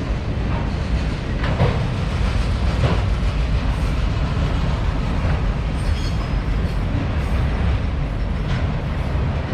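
Freight train cars rolling past with a steady low rumble and occasional wheel clicks over rail joints, plus a brief high wheel squeal about six seconds in.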